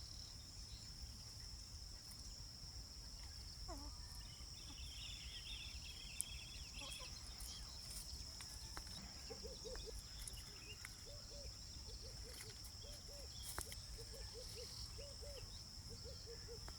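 Outdoor farmyard ambience: a steady high drone of insects throughout, a brief burst of bird twittering, then from about halfway on a run of short low calls in little groups of two to four, typical of foraging poultry.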